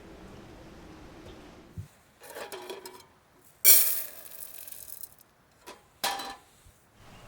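Some rustling, then two sharp knocks of hard objects with a short ring, the first the loudest, after a steady low hum at the start.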